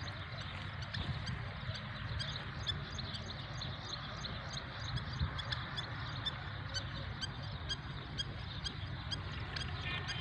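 Small birds chirping, many short high calls one after another, over a steady low rumble.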